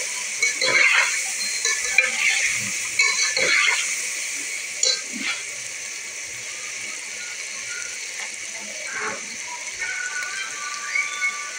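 Chicken wings frying in oil in a metal pot, a steady sizzle, with a metal fork scraping and clattering against the pot during stirring in the first few seconds. Background music comes in near the end.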